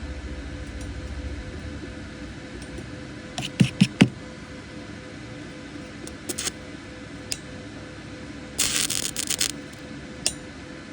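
Workshop handling noises: three sharp knocks in quick succession about four seconds in, a few lighter clicks, and a rough rasping burst lasting about a second near the end, over a faint steady hum.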